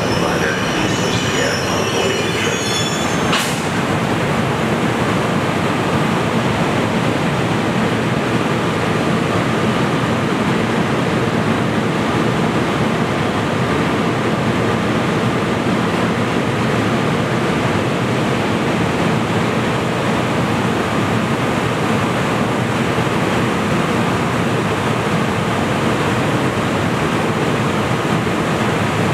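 A New Jersey Transit train of Multilevel coaches with an ALP-46A electric locomotive squeals high-pitched for the first three seconds or so as it comes to a stand, the squeal cutting off sharply. After that the standing train gives a loud, steady hum with a faint whine over it.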